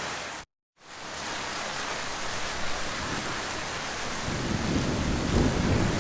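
Heavy rain falling in a steady hiss. It cuts out to silence for a moment about half a second in and fades back up. From about two-thirds through, a low thunder rumble builds under the rain.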